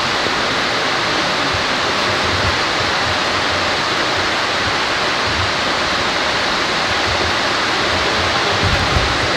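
Heavy rain falling on the building's roof, a steady loud hiss, with scattered low thumps underneath.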